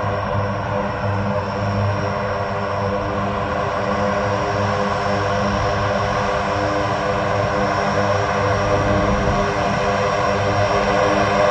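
Aircraft engines running steadily with a droning hum, getting a little louder toward the end.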